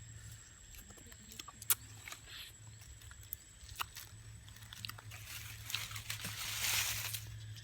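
Scattered small clicks and crackles with a louder rustling stretch about five and a half seconds in, over a steady low hum: close handling noise, typical of breaking and handling wild honeycomb.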